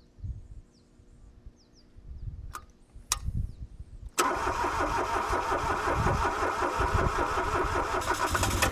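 Two sharp clicks, then the starter cranks the Kobelco SK13SR's Yanmar three-cylinder diesel in an even rhythm for about four and a half seconds. The cranking stops abruptly near the end without the engine catching: after sitting for years, it is being tried on freshly bled fuel lines.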